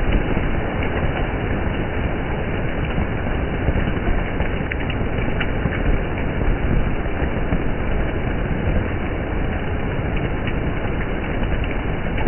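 Steady rushing, splashing noise of water on a rain-wet street, with a few faint ticks.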